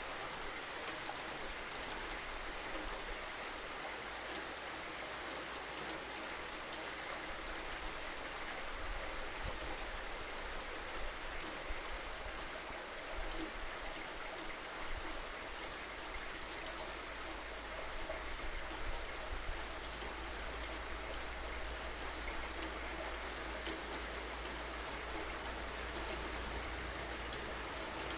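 Steady rainfall, a dense hiss of drops pattering on surfaces with scattered individual drip ticks, over a constant low rumble.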